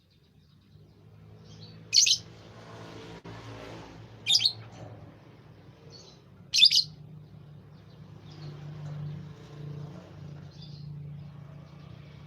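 A bird giving short, loud, high chirps, three of them about two seconds apart with a few fainter ones between, over a low steady hum.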